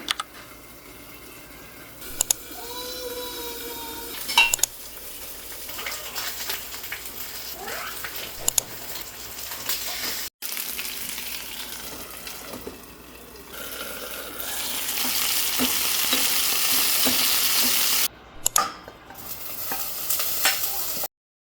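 Chicken frying in a pan while being stirred, with a utensil clinking and scraping against the pan. The sizzle swells into a loud steady hiss in the last third, broken by abrupt cuts between shots.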